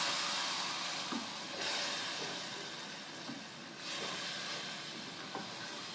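A tomato and spice masala sizzles in hot oil in a pot while a spatula stirs it. This is the frying stage that cooks off the raw taste of the tomatoes and spices. The sizzle swells at the start, again about a second and a half in and again about four seconds in, then slowly dies down.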